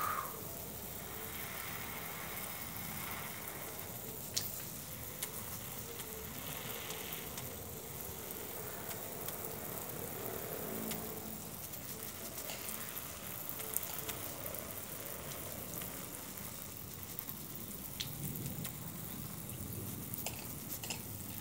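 Water sprayer hissing steadily as it sprays a fine, rain-like mist over a pet lovebird, with a few sharp clicks.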